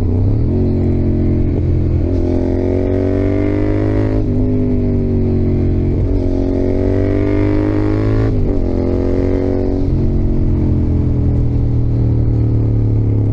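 Yamaha XSR700's CP2 689 cc parallel-twin engine with its 270° crossplane crank, heard from the rider's seat while riding. It climbs in pitch in several stretches of about two seconds, each broken by a short dip, then holds roughly steady for the last few seconds.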